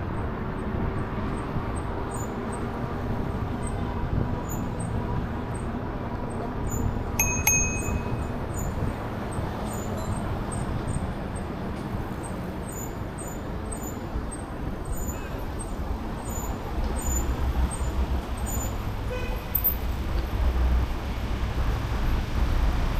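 Street traffic and road noise heard from a moving e-bike: a steady rumble of passing vehicles that grows heavier in the second half, with one short high beep about seven seconds in.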